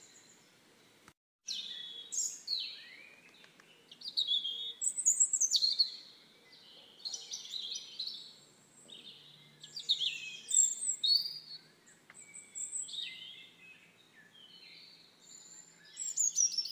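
Several birds chirping and singing in quick, high, sweeping phrases and trills, with a brief complete dropout of sound a little after the first second.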